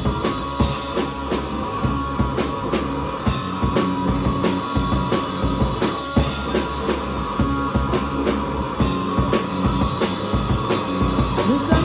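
A three-piece rock band playing live without vocals: drum kit, electric guitar and bass guitar in an instrumental stretch between sung verses.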